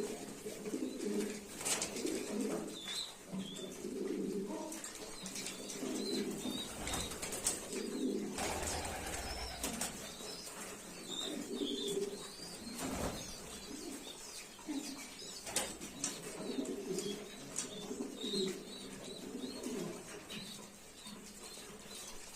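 Pigeons cooing over and over in overlapping low phrases, with occasional wing flaps and sharp clicks; faint higher chirps come through now and then.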